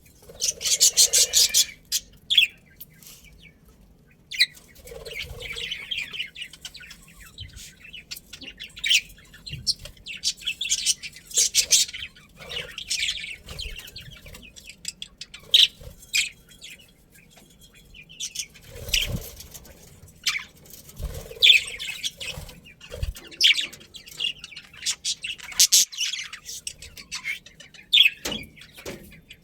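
Budgerigars chirping and chattering in quick bursts of high, raspy notes, repeated every second or two with short pauses between, and a few soft low knocks in the middle.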